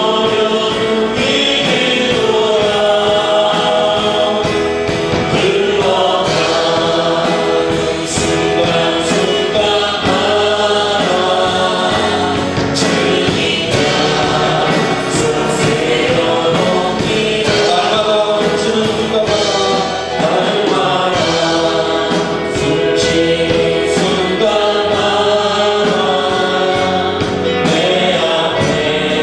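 A congregation singing a worship song together with music, steady and loud throughout.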